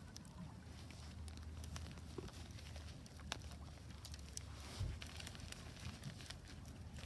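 Wood fire crackling in a Solo Stove Ranger fire pit: scattered sharp pops and snaps over a steady low rumble, with a dull thump about five seconds in.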